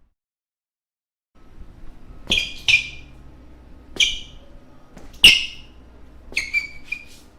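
Basketball shoe soles squeaking on a hardwood court floor: about seven short, sharp squeaks at an uneven pace, some close together, after a second and a half of dead silence at the start.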